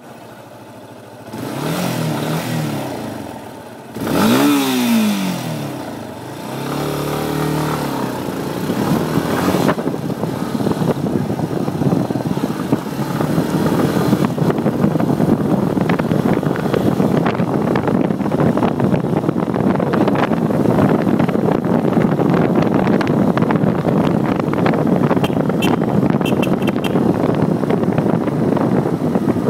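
Yamaha Lander motorcycle engine blipped up and down three times, then left running steadily with a dense, fast ticking clatter, the strange noise the owner wants explained.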